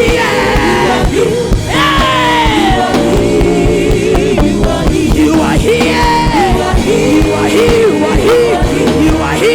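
Live gospel worship music: a band plays with a steady drum beat and held keyboard-like chords, with singing over it. Long high notes slide downward in pitch about two seconds in and again about six seconds in.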